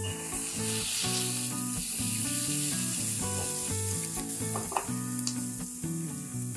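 Diced linguiça sausage, onion and garlic sizzling in olive oil in a frying pan while a silicone spatula stirs them, browning over the heat. Soft background music plays underneath.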